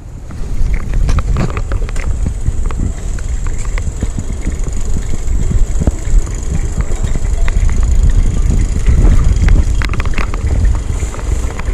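Heavy wind rumble on the microphone with scattered clicks and rattles, building up from silence in the first half second.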